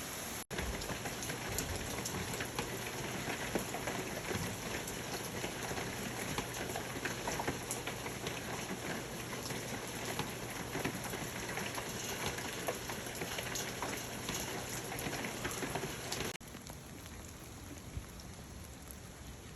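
Steady rain falling, with many separate drops heard striking a surface. There is a brief dropout just after the start. About three-quarters of the way through it cuts to a somewhat quieter stretch of rain.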